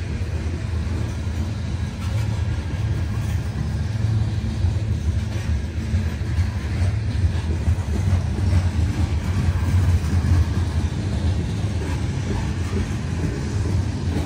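CN manifest freight train rolling past, a steady, heavy low rumble.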